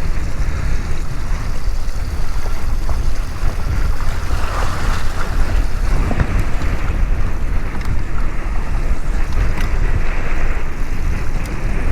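Strong wind buffeting the microphone in a steady low rumble, with choppy open-water waves washing around.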